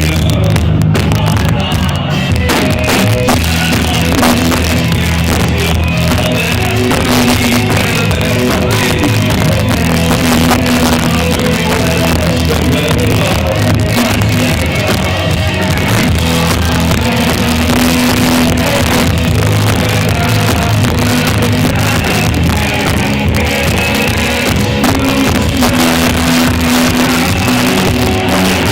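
Live rock band playing: distorted electric guitar, bass and drum kit, loud and dense, with sustained chords and steady cymbals.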